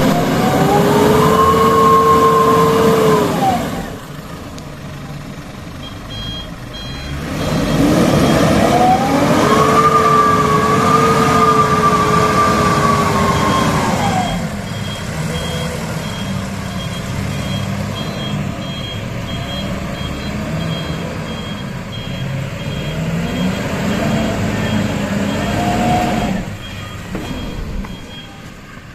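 Mitsubishi Fuso Canter dump truck's diesel engine revved hard twice in long bursts, pitch rising then falling back, with a shorter rev near the end and lower running in between, as the truck strains to pull out of sinking sand under a load of white sand. A reversing beeper sounds in short repeated beeps through most of it.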